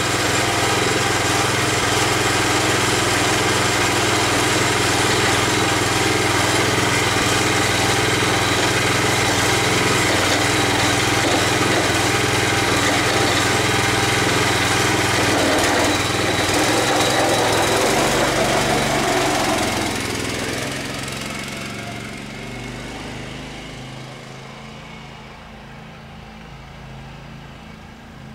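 Small single-cylinder engine of a garden tractor or riding mower running steadily, then fading away gradually over several seconds about two-thirds of the way in.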